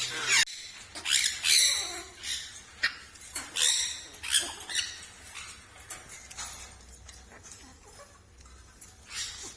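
Parrots calling in short, high-pitched squawks and squeaks, a quick run of them over the first few seconds, then sparser, with one more near the end.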